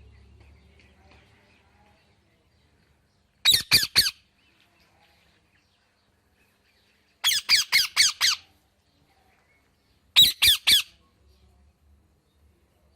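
A parrot squawking in three short, loud runs of quick calls, a few calls in each, spaced about three seconds apart.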